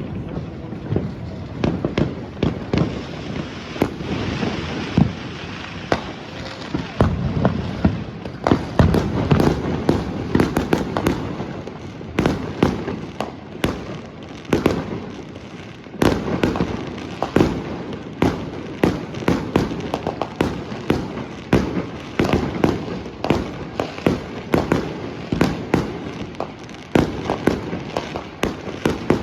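Dense New Year's fireworks and firecrackers going off all around: a continuous barrage of overlapping booms, bangs and crackling pops with no real pause.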